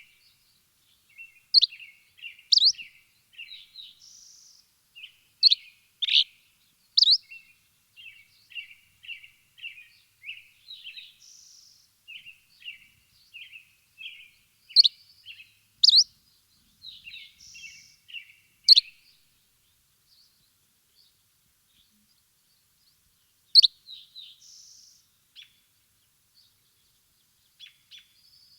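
Small birds chirping: quick runs of soft chirps, broken every few seconds by a louder, sharp high chirp, with a lull of a few seconds about two-thirds of the way through.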